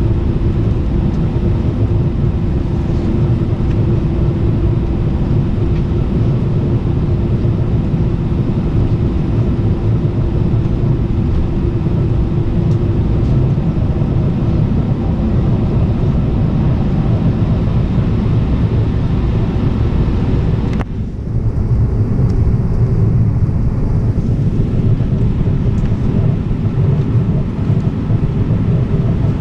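Steady, loud rumble of an Airbus A319 airliner heard from inside the cabin, with a steady hum on top that fades out about halfway through. The sound dips briefly about two-thirds of the way in, then carries on as before.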